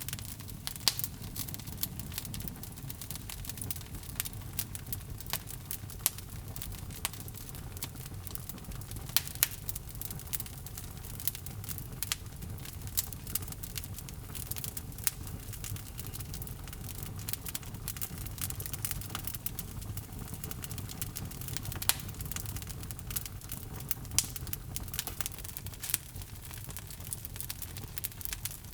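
Wood logs burning in a fireplace: dense, irregular crackling and popping over a steady low rumble of the flames, with a few sharper pops standing out.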